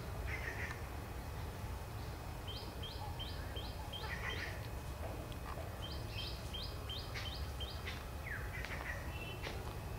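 Songbirds calling in woodland: one bird gives two runs of short, high, evenly repeated notes, about four a second, and other birds add scattered chirps. A low steady rumble runs underneath.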